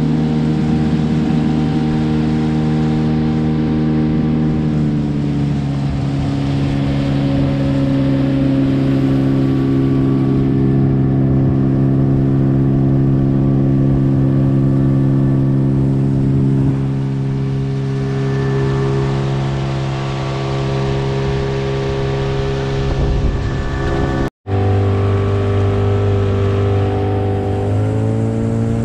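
Gladiator 9.9 hp outboard motor running steadily under way. Its pitch drops about five seconds in, and it rises again near the end after a brief break.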